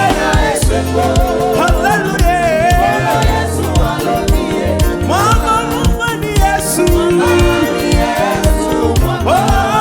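Gospel praise-and-worship music: a singer's voice wavering over a band with held chords, a bass line and a steady beat.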